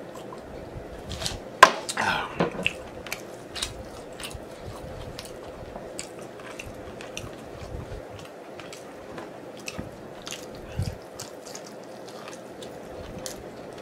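Close-miked chewing and biting of sticky glazed chicken wings: many small wet mouth clicks and smacks. A single sharp knock comes about a second and a half in, followed by a brief vocal sound.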